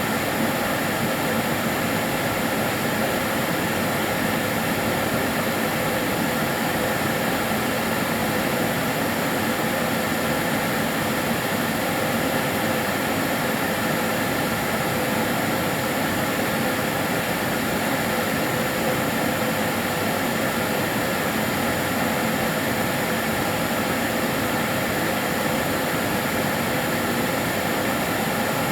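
Karcher DS 6 Premium water-filter vacuum cleaner running steadily: an even rush of air with a faint steady hum, unchanging throughout.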